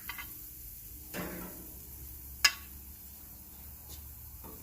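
A few metal clicks and a scrape from a utensil on the grill as the partly cooked chicken breasts are lifted off, with one sharp click about halfway through.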